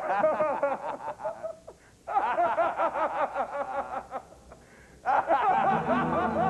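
A person laughing in three bursts of rapid, pulsing chuckles. Music comes in under the last burst near the end.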